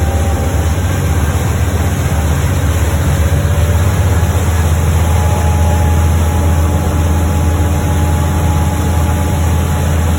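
A boat's engine running steadily under way, a loud, even low drone.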